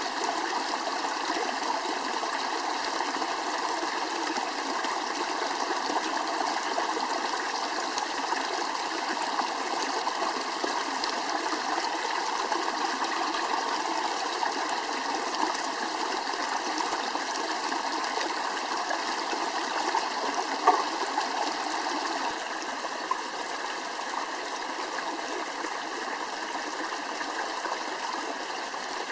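A stream of running water rushing steadily, with one sharp click about two-thirds of the way through.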